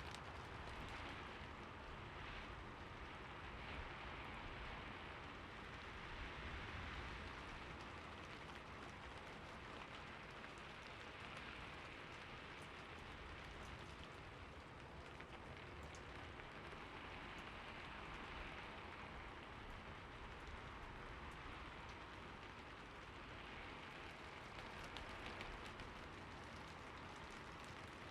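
Steady rain falling, an even hiss with scattered fine drop patters, swelling and easing gently every few seconds.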